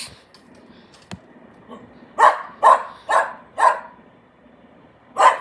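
Dog barking four times in quick succession, about half a second apart, starting about two seconds in, after a single sharp click.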